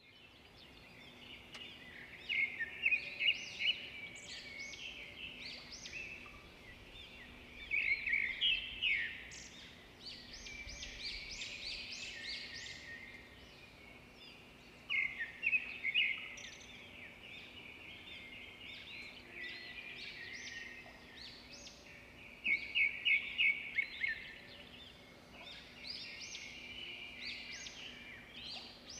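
Small birds chirping and singing, with a burst of quick, high repeated notes every six or seven seconds over a faint steady hum.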